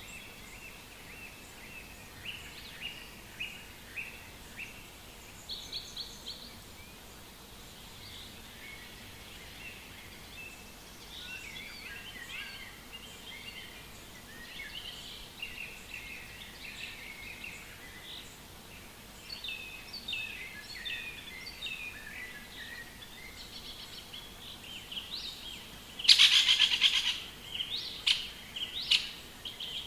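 Several songbirds chirping and warbling in a forest, with overlapping short phrases throughout. Near the end a loud, rapid rattle lasts about a second, followed by a few sharper calls.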